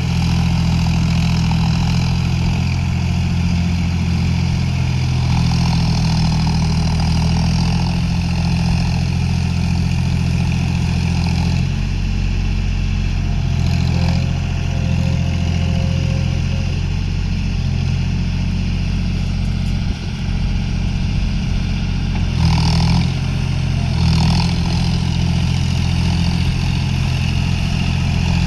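John Deere 5050D tractor's three-cylinder diesel engine running steadily. Twice in the last third, a second or so apart, there is a short louder burst of noise.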